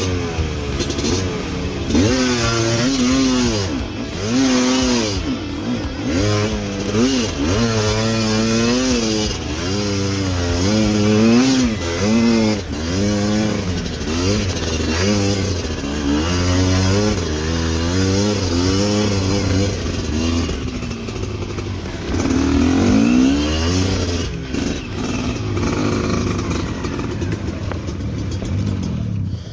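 Motorcycle engine revving up and down over and over, its pitch rising and falling about once a second, as the throttle is worked on rough ground.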